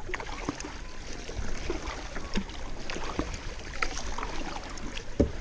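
Kayak paddle working the water: irregular small splashes and drips over a steady low rumble.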